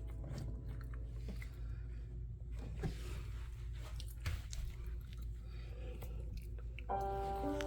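Nine-day-old miniature schnauzer puppies suckling at their mother: soft, irregular wet smacking and squishing. Background music comes in near the end.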